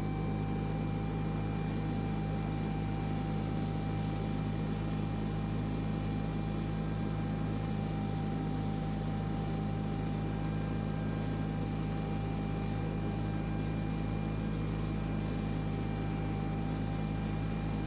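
John Deere 318 garden tractor's two-cylinder Onan engine and mower deck running at a steady throttle while mulching leaves, a constant mechanical hum with a faint steady whine.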